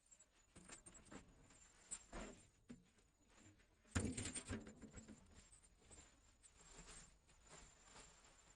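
Faint scattered tapping and rustling, with a louder knock and scuffle about four seconds in.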